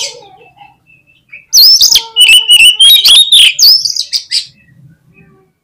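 Oriental magpie-robin (kacer) in full song: after a faint start, a loud run of varied high whistles and quick sharp notes begins about a second and a half in and lasts about three seconds.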